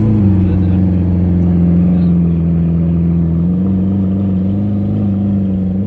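Lamborghini Aventador SV's naturally aspirated V12 running, blipped up briefly at the start and then held at a steady engine speed, with a slight dip and rise near the end.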